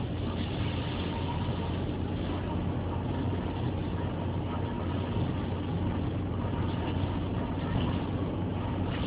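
Vehicle engine running steadily: a low hum with a noisy hiss above it.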